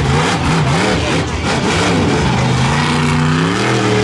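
Monster truck engine revving hard, the pitch surging up and down a few times, then climbing steadily and holding high near the end.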